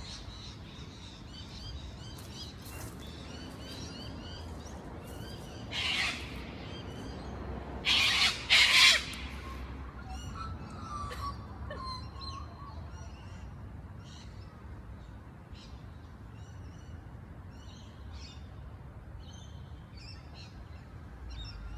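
Small birds chirping and singing, a steady run of short high notes, over a low rumble. About six seconds in, and twice again between eight and nine seconds, there is a short loud rush of noise.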